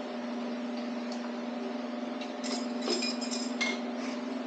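Several light metal clinks with a short ring as engine bearing caps and bearing shells are handled and set down during a teardown, over a steady low hum.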